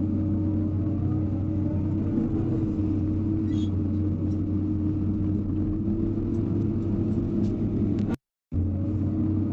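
Hydraulic excavator's diesel engine running with a steady low hum, with a faint rising whine about a second in. The sound drops out completely for a moment just after eight seconds.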